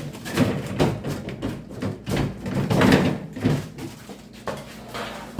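Irregular rustling and knocking as frozen food packages are handled and moved around in a home freezer.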